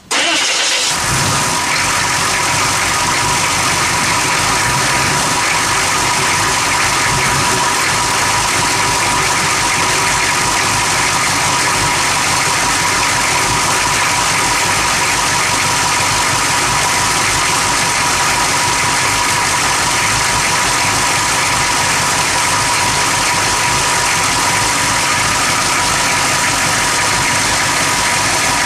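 Engine idling roughly: a loud, steady running with an even, constant tone through it.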